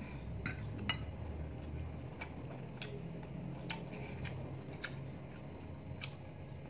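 Sharp, short mouth clicks from chewing food with the mouth closed close to the microphone, coming at uneven spacing roughly every half second to a second, over a faint low hum.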